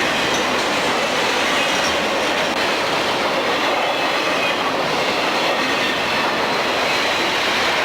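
Freight train rolling past, a steady noise of steel wheels on the rails with a faint high ring.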